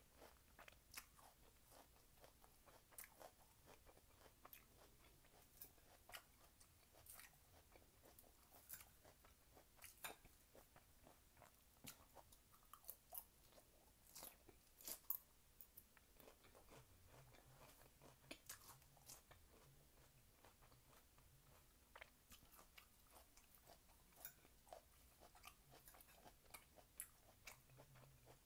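Faint close-up chewing of crunchy food, with irregular crisp crunches and small mouth clicks.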